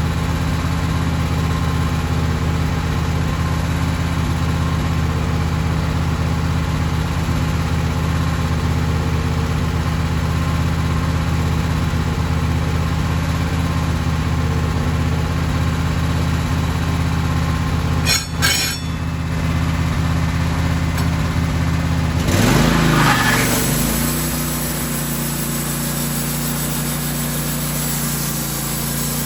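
A sawmill's engine running steadily. Near the end there is a short burst of noise, and the engine then drops to a lower, quieter speed.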